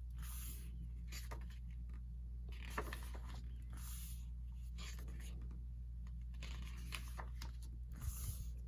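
Paper pages of a small photo book being turned: several short, soft rustles spread through, over a steady low hum.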